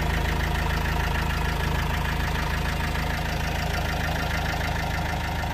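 Nissan Qashqai's 1.5 dCi four-cylinder diesel engine idling steadily.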